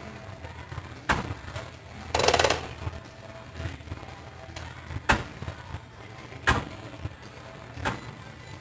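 A series of sharp knocks: one about a second in, then three about a second and a half apart from five seconds on. A short rushing burst comes a little after two seconds, over a low steady hum.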